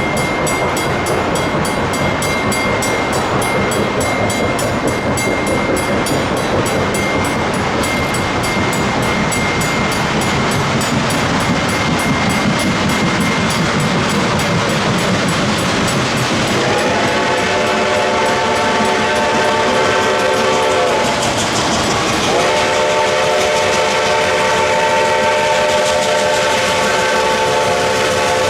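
Reading & Northern 4-8-4 steam locomotive 2102 passing, its bell ringing over the steady noise of the train for the first several seconds. About two-thirds of the way through, its Reading six-chime steam whistle sounds a long chord, breaks off briefly, then sounds again and holds.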